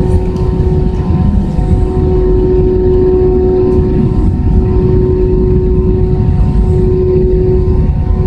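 Airbus A320 cabin noise: the jet engines running with a loud, steady low rumble and a constant hum.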